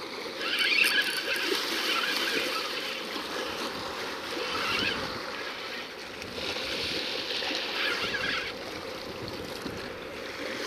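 Sea water washing and splashing over shore rocks, swelling and easing in surges.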